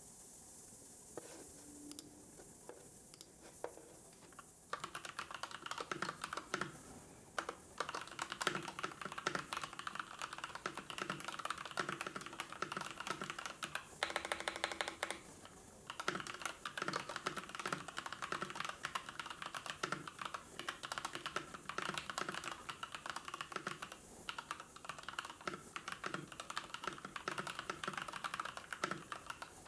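Typing on a computer keyboard: rapid runs of key clicks that start about five seconds in, after a few seconds of faint hiss with scattered clicks, and break off briefly now and then.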